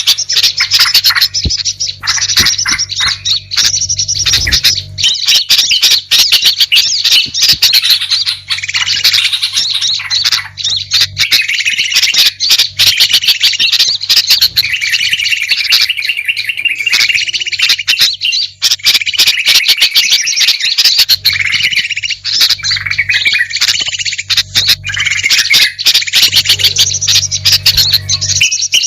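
Bird-lure (pikat) recording of several small songbirds calling together: a dense, unbroken mix of rapid chirps, trills and squawks, with a low steady hum underneath for a few seconds at the start and again near the end.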